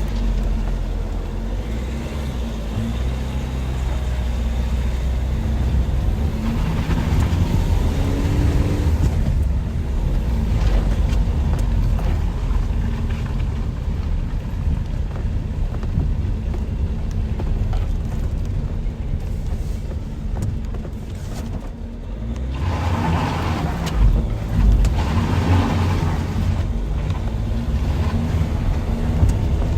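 Steady low rumble of road traffic, with vehicles passing by. The louder passes come about a quarter of the way in and again about three-quarters of the way through.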